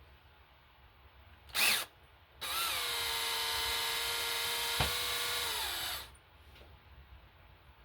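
Electric drill running a reverse drill bit into a broken bolt in an engine block: a brief trigger blip, then a steady whine of about three and a half seconds that spins up and winds down at the end, with a single sharp click partway through.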